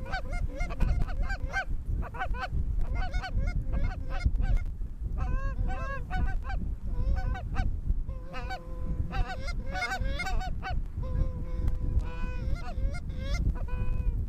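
A flock of geese honking, many calls overlapping in quick succession, some longer drawn-out honks joining from about eight seconds in, over a steady low rumble.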